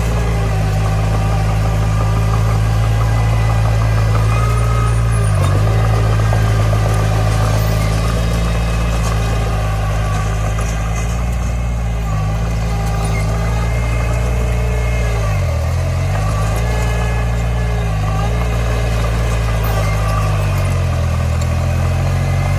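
Komatsu D20 bulldozer's diesel engine running steadily, its pitch sagging briefly several times as the engine takes load.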